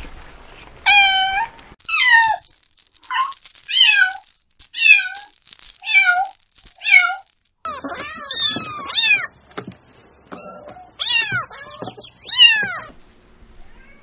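Kittens meowing with high, thin mews. First comes a run of about seven short meows, roughly one a second. Then, after a cut, several kittens mew at once with overlapping calls.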